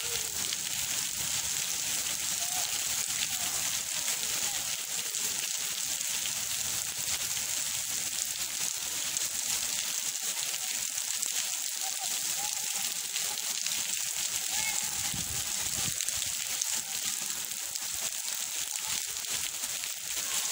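Heavy tropical downpour falling steadily on paving, puddles and trees, a dense even hiss.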